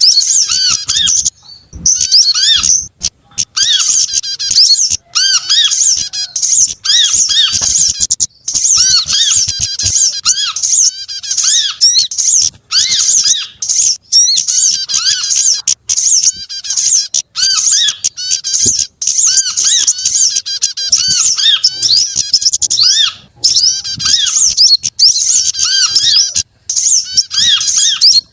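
Bird-lure recording of several small songbirds calling at once: dense, loud high chirps and twitters layered over a run of short, arched notes lower down, continuous with only brief gaps. It is a mixed call track played to draw small birds in.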